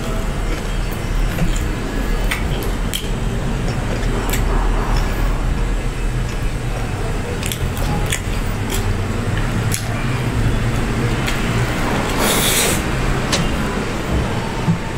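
Close-miked chewing of crispy fried chicken, with mouth clicks and smacks scattered through and a steady low hum underneath. A short, louder burst of noise comes about twelve seconds in.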